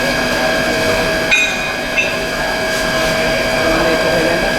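Plastic pelletizing line machinery running steadily: a constant hum with several steady whining tones, broken by two sharp metallic clanks about a second and a half and two seconds in.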